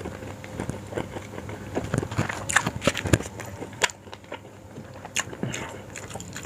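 A person chewing food close to the microphone, with irregular soft clicks and smacks of the mouth.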